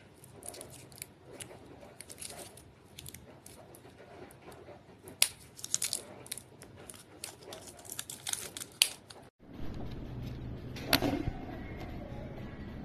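Light clicks and rattles of small hard objects being handled: many quick irregular taps for about nine seconds. Then the background changes suddenly to a steady low hum, with one sharp click a little later.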